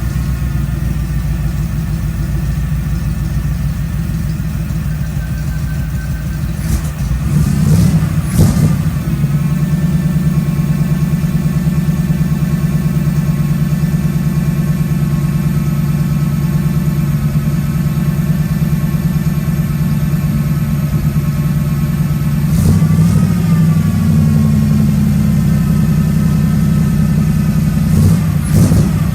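The 1950 Ford rat rod's carbureted engine running cold just after a cold start at about 30 degrees with no choke. It idles low and is revved up about 8 seconds in and again around 23 seconds in.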